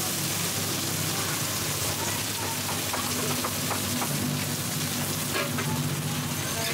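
Shrimp pancake batter frying in a pool of hot oil on a wide flat pan, sizzling steadily.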